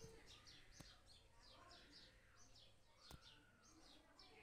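Faint bird chirping: a quick run of short, high, falling chirps, about four a second, with a couple of soft clicks.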